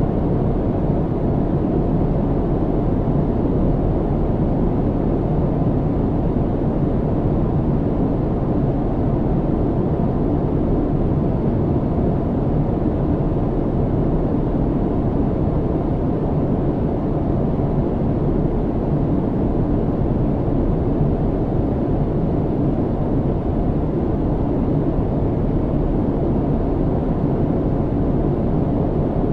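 Steady low rumble of an airliner's cabin in cruise: engine and airflow noise, strongest in the low end and even throughout, with a faint steady hum.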